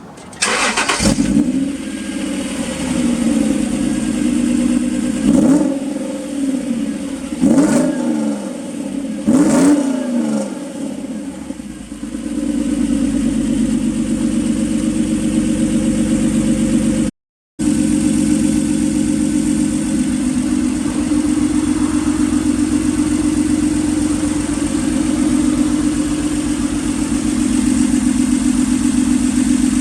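Honda NSX's 3.0-litre V6 through an aftermarket exhaust, starting up about half a second in, then blipped several times with rising and falling revs before settling into a steady idle. There is a brief dropout in the sound partway through.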